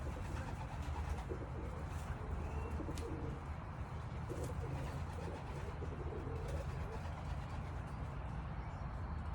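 Racing pigeons cooing in low, grunting coos, the call of cock birds, over a steady low hum.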